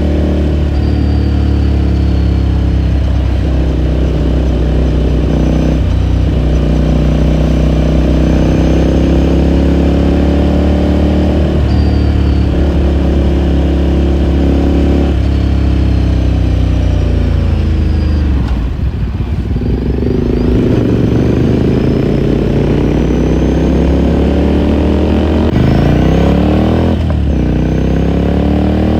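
The air-cooled 399 cc L-twin of a 2018 Ducati Scrambler Sixty2 pulling through the gears on the road, pitch climbing and dropping at each upshift. About two-thirds through it falls away as the bike slows, then picks up again with quick shifts near the end.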